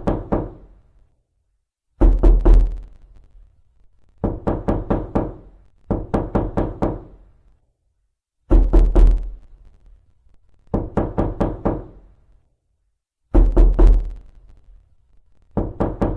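Knocking on a door in quick bursts of about five to eight raps, each burst lasting about a second and repeated every two seconds or so. Some bursts are harder and heavier than others.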